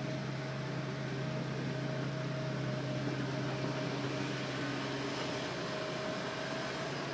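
Hitachi Zaxis excavator's diesel engine running steadily, a constant low drone with a faint, steady higher tone above it.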